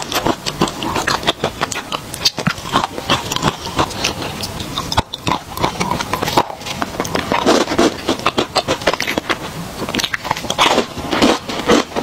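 Close-miked crunching and chewing of hard chocolate, a dense run of crisp cracks and mouth sounds as the pieces are bitten and chewed.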